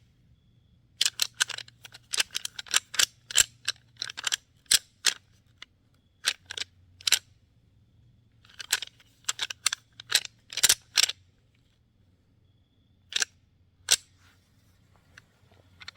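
Sharp, irregular clicks and taps close to the microphone, a few dozen in loose clusters with short quiet gaps between them.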